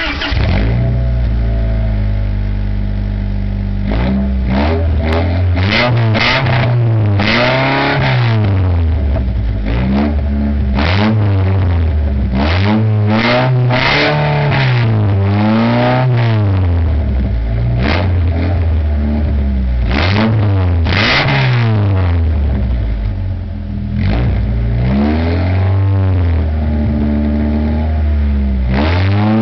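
Honda Accord four-cylinder engine running straight out of the exhaust manifold with no muffler or catalytic converter, loud: it idles for a few seconds, then is revved again and again, the pitch climbing and dropping back every second or two.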